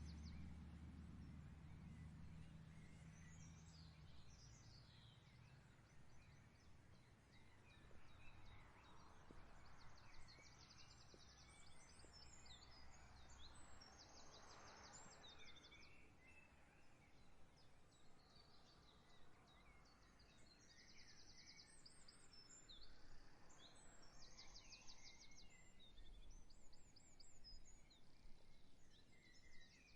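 Faint wild songbirds singing: short, high, rapid trills repeated every few seconds, with scattered chirps between them. A low hum fades out over the first few seconds.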